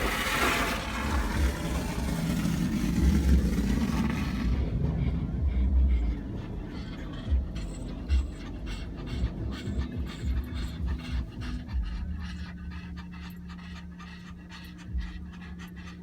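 Dogs panting fast and hard, a sign of fear and stress from the car wash. A loud broad wash of car-wash spray and machinery rumble fills the first four seconds or so, then falls away to a low steady hum under the panting.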